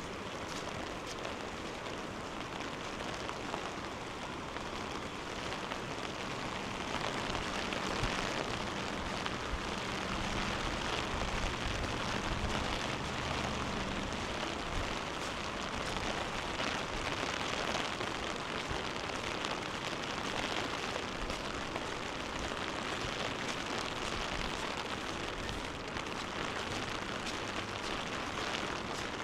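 Steady rushing of fast-flowing floodwater from the swollen river, a constant even noise. A low steady hum joins it for several seconds around the middle.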